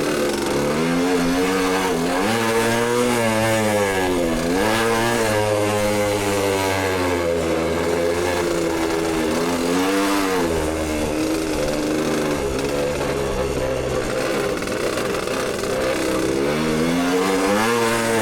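Dirt bike engine being ridden hard, revving up and falling back again and again as the throttle opens and closes and gears change.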